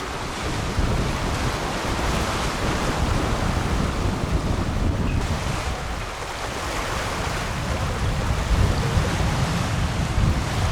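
Wind buffeting the microphone over the steady rush of rough, choppy sea waves, heard from a sailing catamaran under way.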